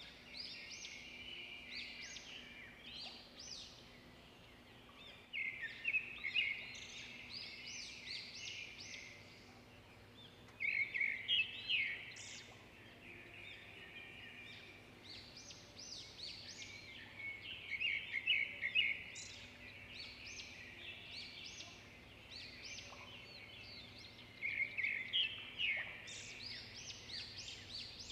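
Small birds chirping and twittering in repeated flurries of rapid high notes, several seconds apart, over a faint steady low hum.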